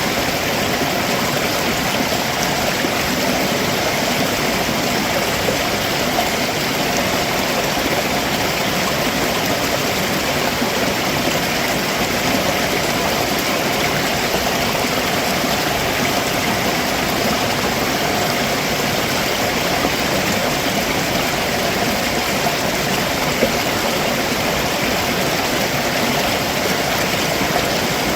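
Stream water rushing and splashing over rocks below a waterfall, a steady, unbroken rush.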